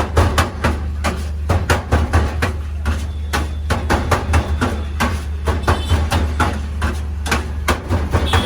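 Quick, uneven chopping strikes, several a second, as food is chopped on a board or griddle in a street food kitchen, over a steady low hum.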